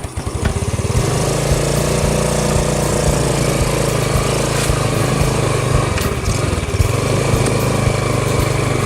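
Small engine speeding up over the first second, then running steadily at a constant speed.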